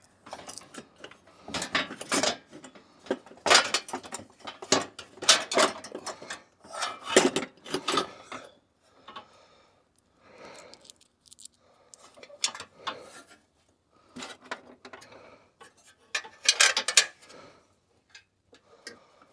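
Ratchet wrench clicking in short runs and metal parts clattering, in several separate bursts of rapid clicks with quieter gaps between.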